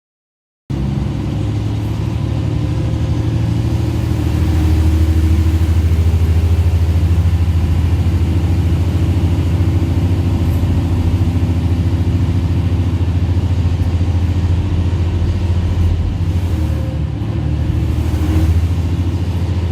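Diesel railcar engine running under load, heard from inside the carriage: a steady low rumble that grows louder over the first few seconds as the train gets under way, then holds.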